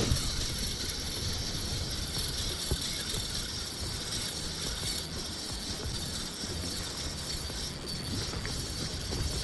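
Strong wind buffeting the microphone, a steady low rumble that rises and falls, over a constant high hiss.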